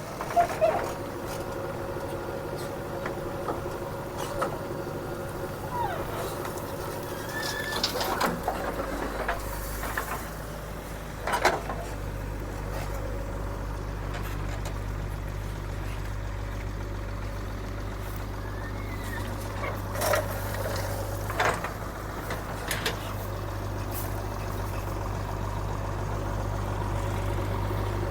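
Diesel engines of a JCB 3DX backhoe loader and a tractor running steadily, with a deeper engine hum coming in about eight seconds in. Scattered sharp knocks and clanks, about half a dozen, are heard over the engines.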